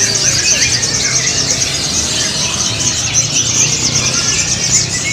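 Many caged sogon (crimson sunbirds) singing at once in a contest round: a dense, continuous chatter of high, thin chirps and quick trills, with a low steady hum beneath.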